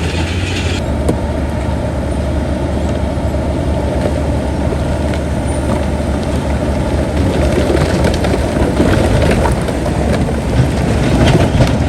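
Heavy diesel earthmoving machinery running steadily, with scattered clanks and knocks that come more often in the last few seconds.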